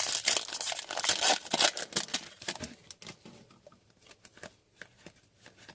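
Foil wrapper of an Upper Deck hockey card pack being torn open, then rustling and sharp clicks of the cards being handled, which thin out after about three seconds.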